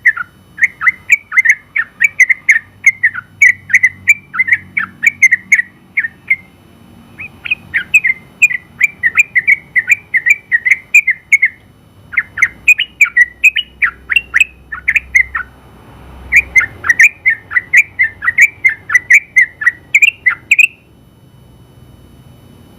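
Yellow-vented bulbul (trucukan) singing a long, rapid run of loud chirping notes, about four or five a second. The song comes in four phrases with short breaks between them and stops shortly before the end.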